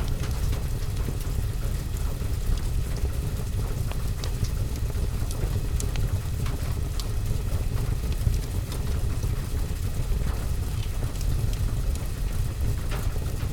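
Steady rain falling on a roof and window, with a deep low rumble under it, mixed with scattered small crackles and ticks from a wood fire.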